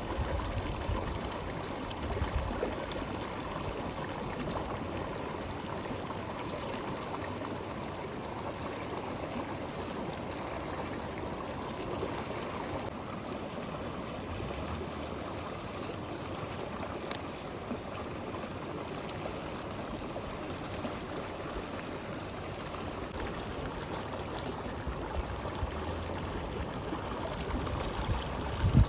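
A river flowing steadily, an even rushing of water, with a low bump near the end.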